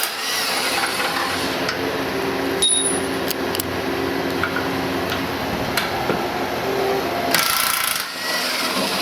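Tools working the last two bolts holding the old Ford 5.0 V8 loose for removal: small metal clicks and rubbing over a steady mechanical hum, with a short burst of hiss about seven and a half seconds in.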